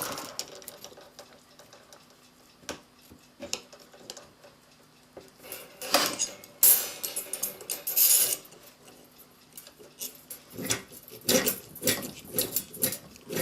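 Small metal tools and a clock mainspring being handled at a bench vise: scattered clinks and taps, two longer scrapes about six and eight seconds in, and a quick run of clinks near the end.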